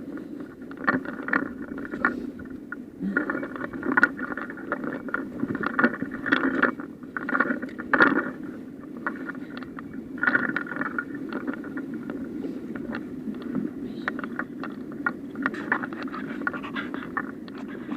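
Small mountain stream running steadily, with irregular scrapes and clicks of handling close to the microphone.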